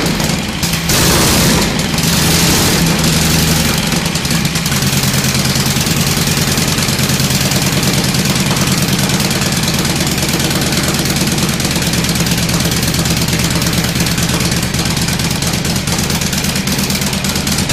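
1915 Indian eight-valve boardtrack racer's V-twin engine running loudly at a fast, even beat, settling to a steady speed after the first couple of seconds.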